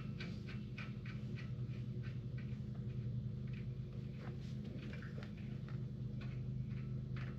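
Irregular light clicks and taps from parts being handled while a front wheel hub and its bearings are put back together, over a steady low hum.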